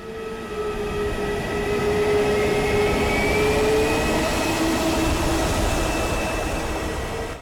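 The four Lycoming ALF502 turbofan engines of a BAe 146-300 jet airliner at high power: a steady jet rush with several whining tones, one sliding slowly down in pitch while a higher one rises. The sound stops abruptly near the end.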